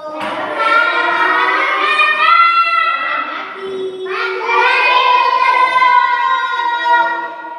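Children's voices singing a song in two long phrases of held notes, with a short break about halfway through.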